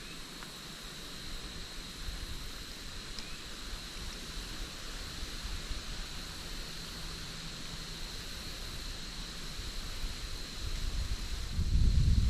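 Outdoor ambience: a steady hiss with a faint high steady tone, and wind rumbling on the microphone that builds and is loudest near the end.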